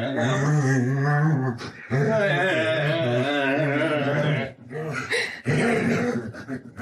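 Long, drawn-out vocal sounds with a wavering pitch, in long stretches that break about two seconds and four and a half seconds in.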